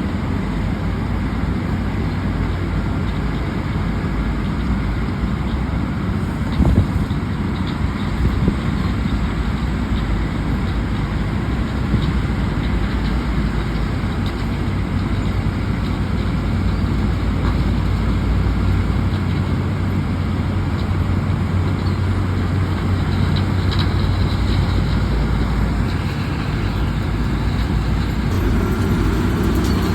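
Heavy road-works machinery at an asphalt milling job, its engine running steadily with a constant low hum. A brief knock sounds about seven seconds in.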